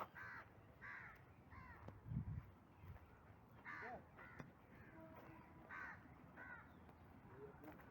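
Birds calling outdoors: a series of short, harsh calls, roughly one a second, some nearer and some farther off. A low thump about two seconds in.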